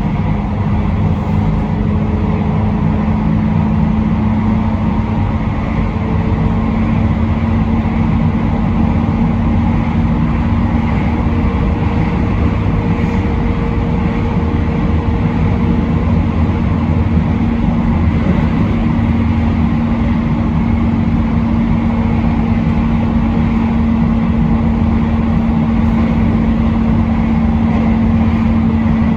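Train running steadily along the line: continuous rumble of wheels on rail with a steady low hum.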